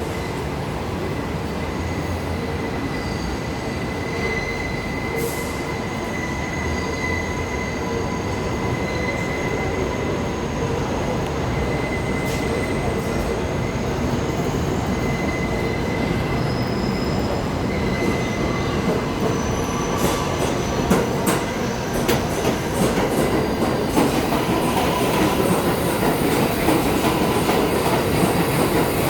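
New York City Subway train running on the rails with a steady high-pitched wheel squeal over its rumble; from about two-thirds of the way through it grows louder and a run of sharp clicks from wheels passing rail joints sets in.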